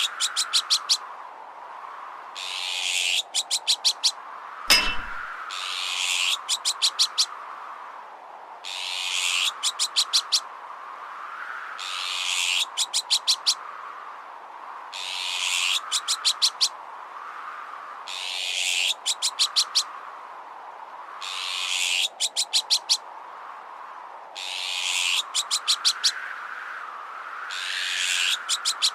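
Azure-winged magpie alarm calls, looped: a harsh rasping note followed by a quick run of five or six sharp calls, repeating about every three seconds. Under them a howling wind tone rises and falls. A single metallic clank rings out about five seconds in.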